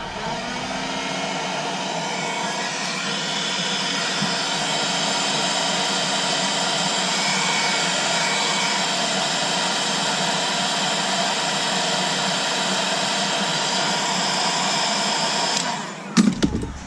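Hot-air gun blowing steadily, heating the phone's back glass to soften its adhesive. It cuts off near the end, followed by a few sharp clicks.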